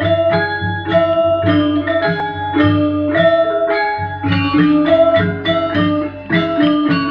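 Loud gamelan-style music played through a sound system for a sound check: quick runs of struck, ringing metallic notes over a pulsing bass.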